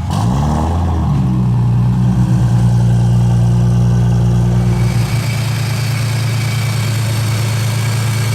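Toyota Supra's engine idling steadily just after being started, its tone shifting about five seconds in.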